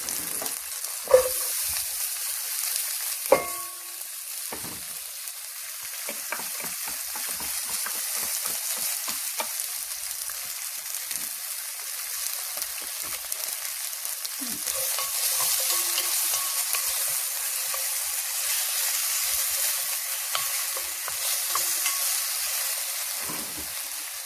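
Onions and garlic sizzling in a hot frying pan as they are stirred, with a steady high hiss. Two sharp knocks of a utensil against the pan come about a second and three seconds in.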